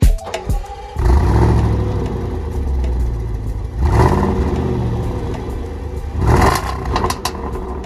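Range Rover SVR's supercharged V8 running through Supersprint non-resonated midpipes with a deep low rumble, revved in two short blips about four and six and a half seconds in, the second followed by a few sharp cracks from the exhaust.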